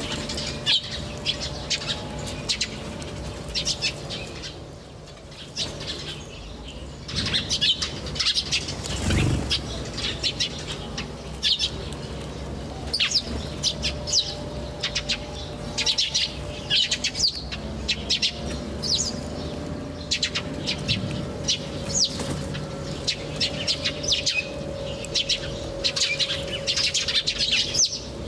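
Many small birds chirping, a dense run of short, high, quick notes, over a low steady hum, with a single low thump about nine seconds in.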